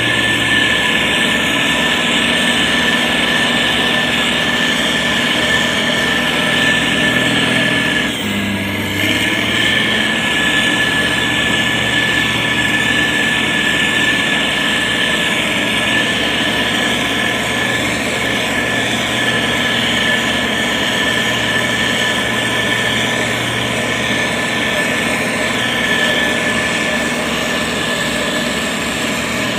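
SANY STG190C-8S motor grader's diesel engine running steadily while it works. The engine note shifts briefly about eight seconds in.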